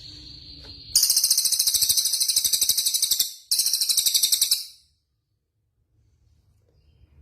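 Songbird singing: a thin, high held whistle, then two long, very fast, very high-pitched trills, the first about two and a half seconds and the second about a second, stopping short about five seconds in.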